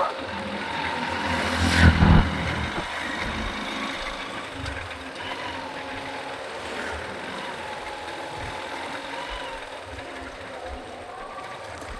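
Motorcycle engine running, with a brief loud low surge about two seconds in, then a steady running sound.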